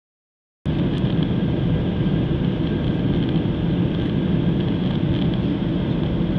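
Airliner cabin noise in flight: a steady low rumble of engines and airflow with a faint hum, cutting in abruptly after a split second of dead silence.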